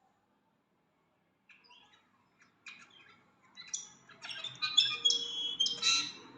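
A bird calling: a few scattered short notes, then from about four seconds in a quick run of clear whistles mixed with harsher notes, loudest near the end.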